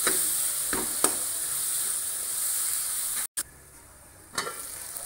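Onion-tomato masala with spice powders sizzling in a steel kadhai while a metal spoon stirs and scrapes through it. About three seconds in, the sound cuts off to a quieter background with a single metal clink.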